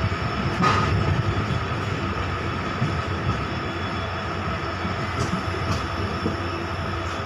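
Train running on rail, heard from a moving passenger coach with another train passing on the next track: a steady rumble of wheels on rail with a faint high steady tone and a few sharp clicks.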